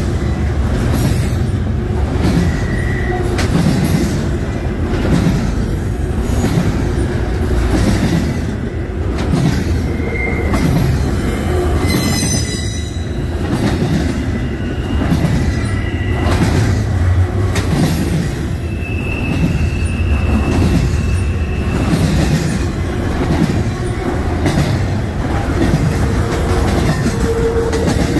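Doublestack intermodal freight train's well cars rolling past close by: a steady rumble of steel wheels on rail with rhythmic clacking over rail joints. Short high wheel squeals come and go, with a longer one about two-thirds of the way through and a lower one near the end.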